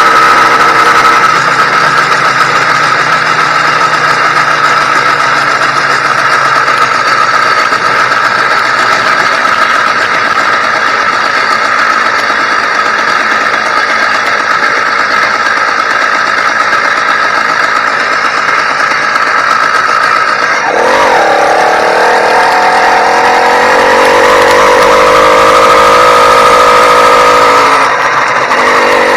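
YD100 two-stroke bicycle engine running at a steady high speed under load. About two-thirds of the way through, its pitch drops sharply as the revs fall, then climbs back and holds before easing off slightly near the end. The engine is new and still being broken in.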